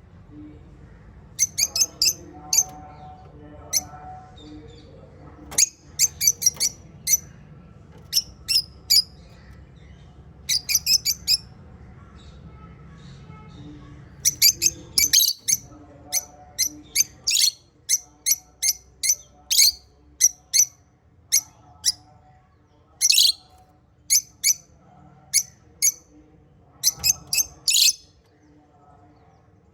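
Small pet parrots, lovebirds and budgies, chirping: clusters of short, sharp, high-pitched chirps several a second, with softer chattering beneath. A low steady hum underneath fades out a little over halfway through.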